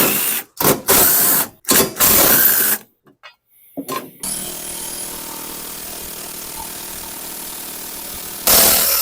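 Cordless power drill or driver spinning out the bolts of a mower's rear cover in short loud bursts, four in the first three seconds and one more near the end. A quieter steady whir runs in between.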